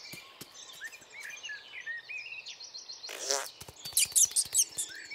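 Small birds chirping and tweeting in quick short calls, with scattered sharp clicks. A short loud rasping noise comes about three seconds in, followed by a quick cluster of loud clicks.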